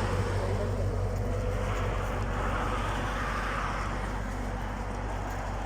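Steady low hum and road noise of a moving car.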